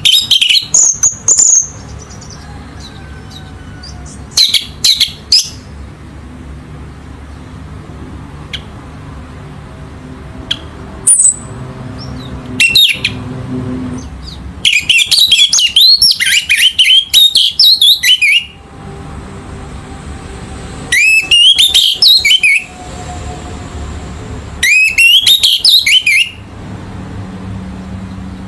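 Orange-headed thrush singing: loud bursts of rapid, varied whistled phrases, several short ones and one longer run of about four seconds in the middle, over a steady low hum.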